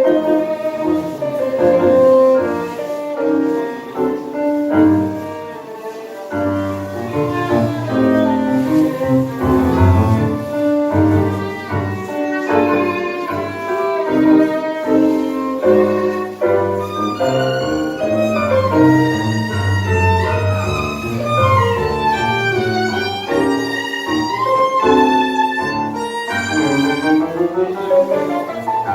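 Live tango music from a small ensemble: a violin carries the melody, with sliding notes in the second half, over piano and a low bowed bass line.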